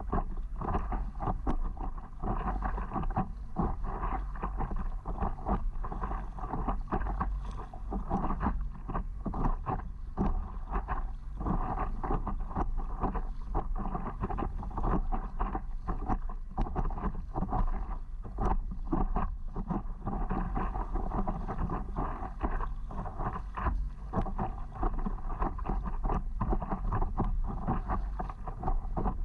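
Wind buffeting the microphone over water splashing and lapping around a stand-up paddleboard, a steady rumbling noise full of irregular crackles.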